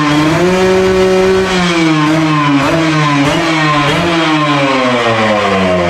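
Kawasaki RR150's single-cylinder two-stroke engine revving: held at a steady rev, then a few quick throttle blips as the revs drop away.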